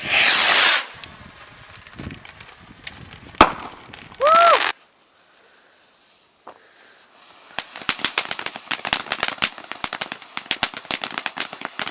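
A small consumer firework: two short loud hissing spurts with a click between them. After a few seconds' lull it breaks into a dense run of rapid sharp crackles.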